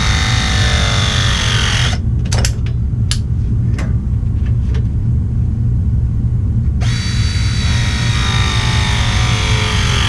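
Battery-powered ProPress crimping tool pressing fittings onto copper pipe: its motor whine slides down in pitch as the jaws close, ending about two seconds in, followed by a few clicks, then a second press cycle starts about seven seconds in. A steady low hum runs underneath.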